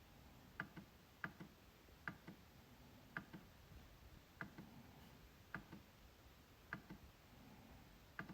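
MacBook trackpad being clicked at a slightly uneven pace of about one click a second, each a sharp press followed closely by a softer release click.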